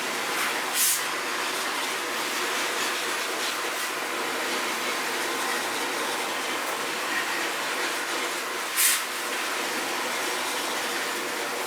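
High-pressure water jet spraying steadily into a split air conditioner's indoor unit to flush dust out of it, with two brief sharp hisses, about a second in and again about nine seconds in.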